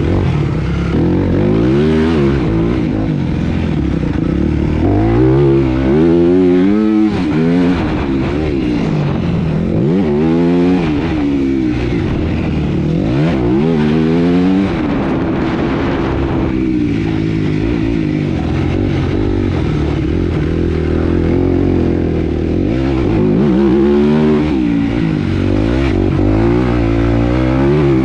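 Motocross motorcycle engines racing, revving up and dropping off again and again as the throttle is worked, with more than one bike heard at times.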